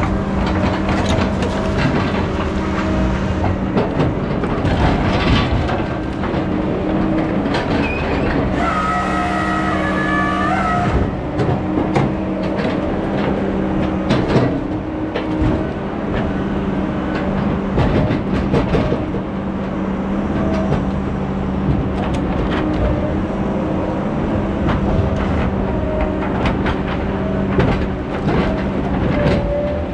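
Heavy logging machinery: a diesel engine runs steadily under frequent metal clanks and knocks. A brief high squeal of about two seconds comes about nine seconds in.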